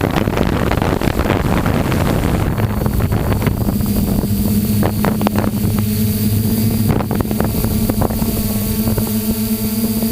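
A steady motor hum that holds an even pitch, with wind buffeting the microphone, heaviest in the first couple of seconds and easing after.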